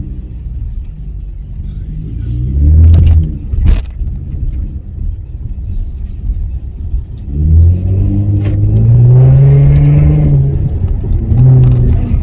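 Car engine accelerating hard, revving up twice: briefly about two seconds in, then longer from about seven seconds in, with a few sharp clicks after the first rise.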